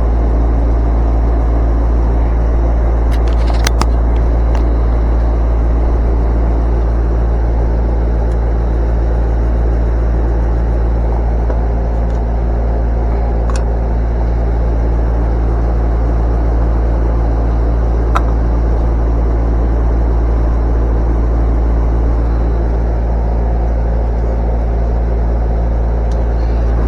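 Steady low mechanical rumble with a constant hum, unchanging throughout, with a few faint clicks.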